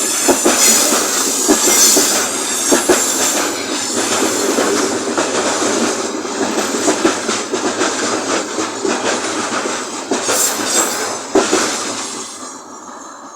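Freight train wagons rolling past, wheels clattering over rail joints with a high wheel squeal, then fading away near the end.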